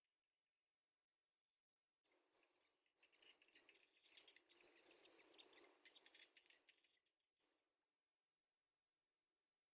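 Baby birds in a nest chirping in a rapid run of short, high calls, starting about two seconds in, loudest near the middle and dying away about two seconds before the end, with a soft rustling under them.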